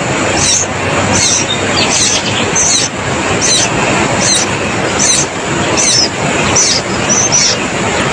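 A bird calling a short, high, downward-sliding chirp over and over, about one and a half calls a second, over a loud steady rushing noise.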